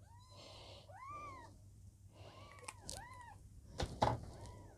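A very young Birman kitten mewing, about five short thin cries that rise and fall in pitch. A couple of sharp handling knocks come about four seconds in.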